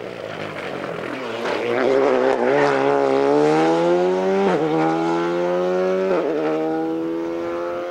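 Rally car accelerating hard past, its engine note climbing with two quick upshifts, about four and a half and six seconds in. It grows louder, then fades as the car pulls away.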